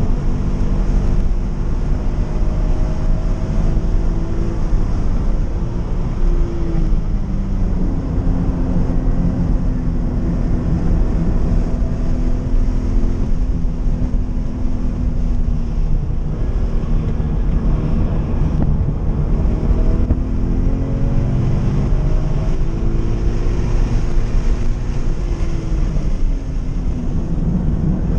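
Scion FR-S's 2.0-litre flat-four engine running hard on track, heard from inside the cabin, its pitch rising and falling several times as the revs climb and drop. Steady road and wind noise runs under it.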